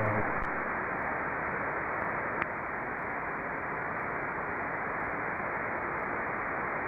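Ham radio receiver tuned to the RS-44 satellite's SSB downlink, giving steady band-limited hiss with no signal between transmissions. There is a brief faint click about two and a half seconds in.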